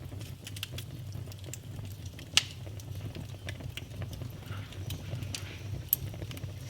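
Wood fire burning in a fireplace: crackling with scattered sharp pops over a steady low rumble of the flames. The loudest pop comes about two and a half seconds in, another just before the end.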